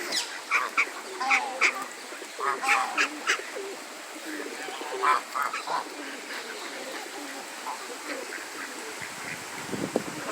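Ducks and other waterfowl calling: a quick run of short, separate calls in the first few seconds, a few more around five seconds in, then fainter.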